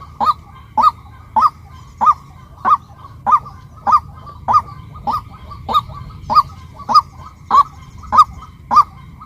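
Female white-breasted waterhen calling: a steady run of short, loud, honking 'kwak' notes repeated evenly, a little under two a second.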